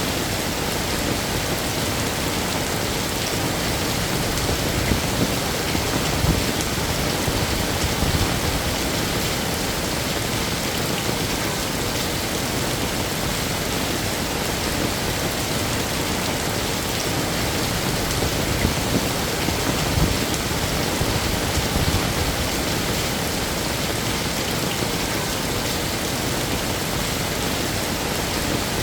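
Heavy rain falling steadily, a dense even hiss of drops hitting hard surfaces, with a few brief low swells.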